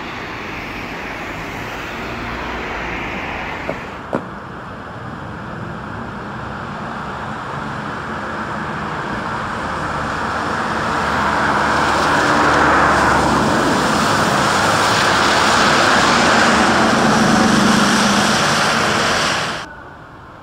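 Rumbling noise of a passing train. It builds louder over several seconds, holds, then cuts off abruptly near the end, with two short clicks about four seconds in.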